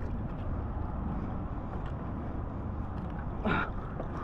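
Wind rumbling on the microphone out on open water, with one brief noisy sound about three and a half seconds in.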